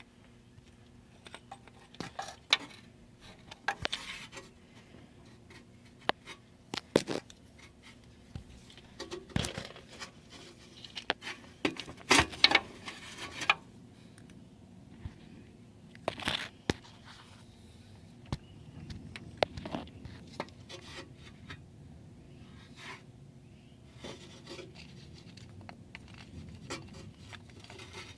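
Irregular clicks, knocks and short scrapes of tools and parts being handled during repair work, with a cluster of louder clicks about halfway through.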